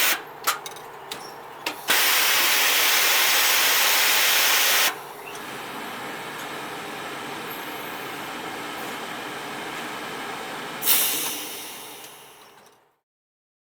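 Clothes-cleaning plant machinery hissing. A loud hiss breaks off with a few clicks, returns for about three seconds, then gives way to a quieter steady hiss. A last loud burst near the end fades away.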